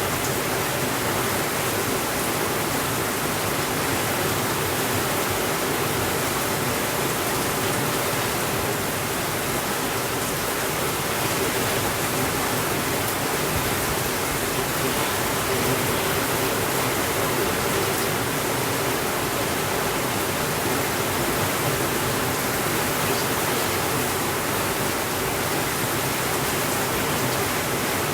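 Steady rainfall, an even hiss with no thunder and no change in level.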